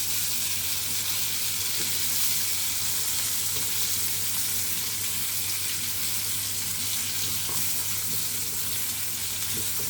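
Meatballs sizzling steadily in a frying pan as they brown, with a steady low hum underneath.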